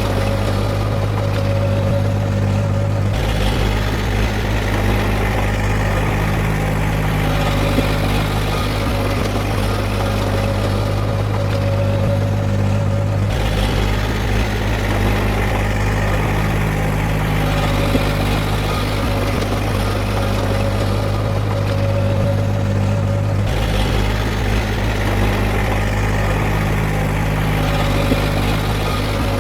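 Heavy diesel earthmoving machinery engine running steadily with a deep, even hum. The texture repeats about every ten seconds.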